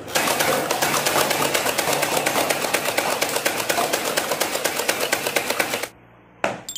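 A toy machine gun firing one long rapid burst, a steady rattle of about ten shots a second that cuts off suddenly about six seconds in.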